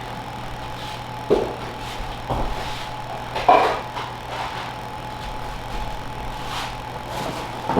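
Someone rummaging through kitchen cupboards: a few separate knocks and clatters of containers being moved, over a steady low hum.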